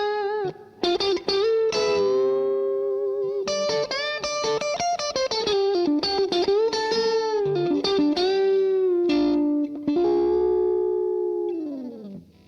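Electric guitar through a DemonFX Breaker Drive overdrive pedal playing a single-note lead line with string bends and vibrato. It ends on a long held note that slides down in pitch and cuts off near the end.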